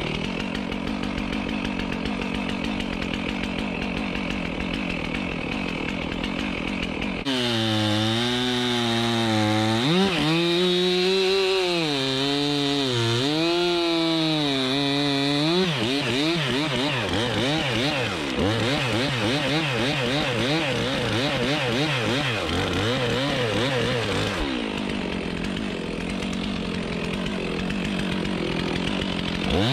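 Chainsaw cutting into wood, running continuously. Its engine pitch dips and recovers again and again as the chain loads up in the cut, then runs steadier from about the middle on.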